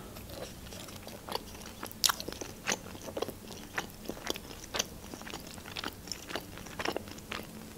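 A person chewing a mouthful of pan-fried pelmeni (fried dumplings): a string of short, irregular mouth clicks and soft crunches.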